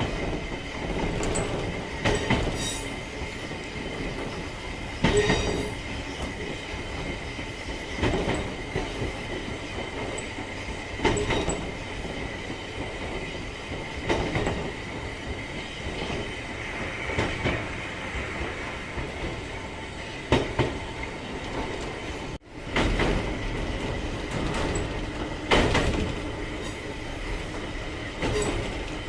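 Narrow-gauge electric train of the Sangi Railway Hokusei Line running along the track, a steady rumble with a thin high whine, and a sharp knock from the wheels about every three seconds.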